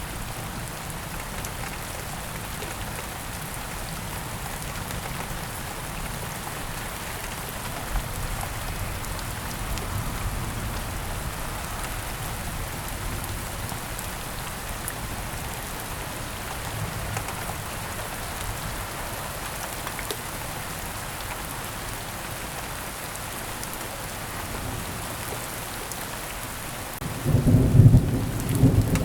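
Heavy rain falling steadily, with a low rumble of thunder underneath; a louder thunder rumble swells up near the end.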